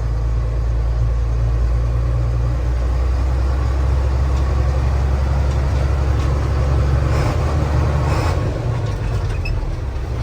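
1991 International 4900 dump truck's diesel engine pulling the truck along in gear through its automatic transmission, heard from inside the cab as a steady low drone. The engine note changes and eases off about eight seconds in as the truck slows.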